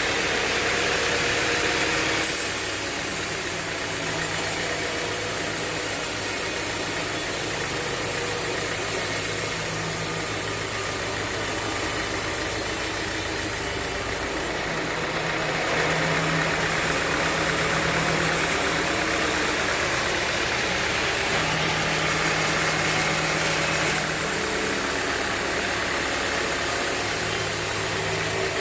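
Sawmill band saw machinery running steadily, a continuous mechanical drone whose tone shifts a few times, about two seconds in, around halfway and again near the end.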